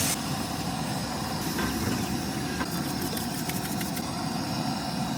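Portable generator running steadily, with a few faint ticks around the middle.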